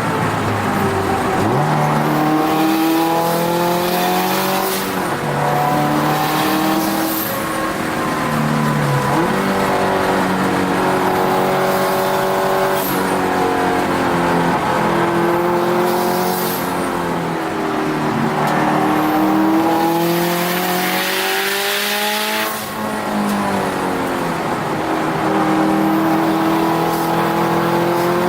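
Turbocharged Subaru WRX STi flat-four engine heard from inside the car under hard track driving. Its pitch climbs through the revs and drops repeatedly at gear changes, with a few deep drops under braking and downshifting.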